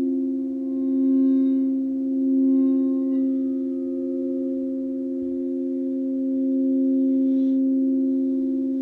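A drone of several sustained, overlapping pure tones for sound healing, slowly swelling and ebbing in loudness. The higher ringing overtones die away about three seconds in, leaving the lower tones humming on.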